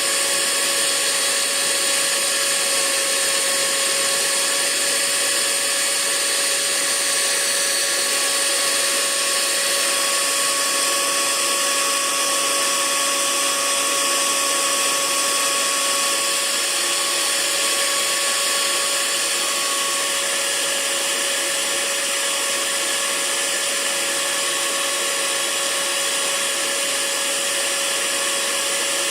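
Hair dryer running steadily: an even rushing hiss of air with a steady motor whine on top.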